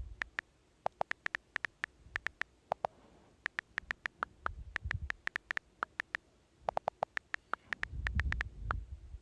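Computer keyboard typing: quick, irregular keystroke clicks in several bursts with short pauses between them, and a low rumble under the clicks near the end.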